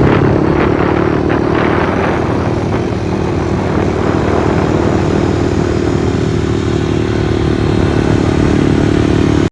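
Pit bike engine running at a steady speed, with a few clattering knocks in the first couple of seconds.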